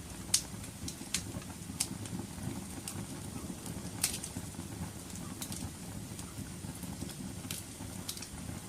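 Wood fire burning in a fireplace: a low steady rumble of flame with irregular crackles and sharp pops, the loudest pops about half a second and about four seconds in.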